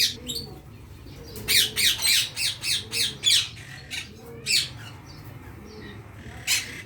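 Blue Indian ringneck parakeet chicks squawking: short harsh calls, a quick run of about six around two to three seconds in, then single squawks later on.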